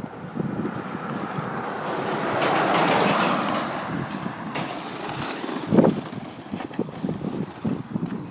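Brushless electric 1/10-scale RC monster truck driving: its running noise swells as it comes closest about three seconds in, then fades. A sharp thump near six seconds is the loudest moment.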